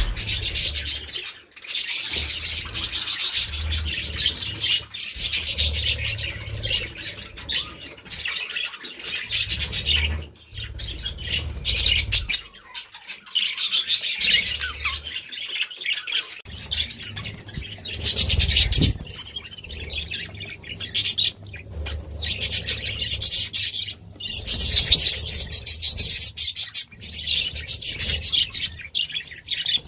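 A flock of budgerigars chattering continuously: dense, rapid chirps and warbles with only brief pauses.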